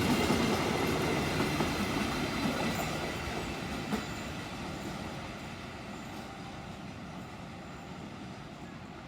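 Passenger train running past on the rails, its wheel-on-rail noise fading steadily as it moves away.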